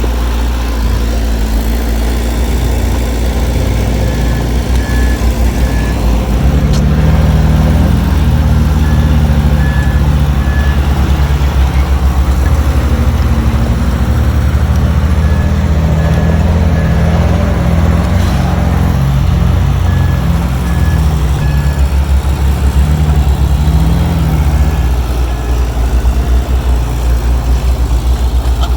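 Heavy diesel engine of a bulldozer running steadily at work, loud and low. A reversing alarm beeps in short runs of a few beeps, repeating every five seconds or so.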